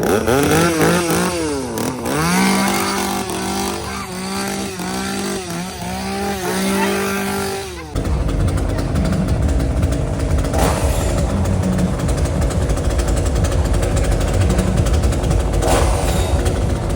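Two-stroke chainsaw engine revving over and over, its pitch rising and falling about one and a half times a second. About eight seconds in it cuts abruptly to a loud, dense low engine rumble.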